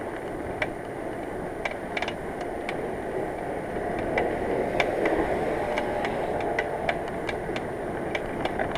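Bicycle rolling on a wet road, with steady tyre and riding noise broken by irregular sharp ticks and rattles; the rider takes the noise for a failing rear hub whose grease has turned to black sludge. The rushing noise swells a little about four seconds in.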